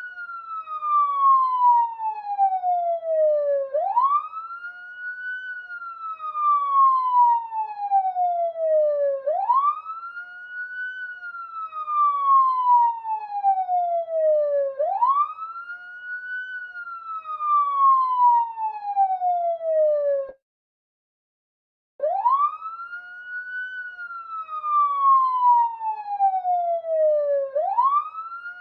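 Police siren wailing: each cycle sweeps up quickly, then falls slowly, repeating about every five and a half seconds. It cuts out completely for under two seconds about two-thirds of the way through, then starts again.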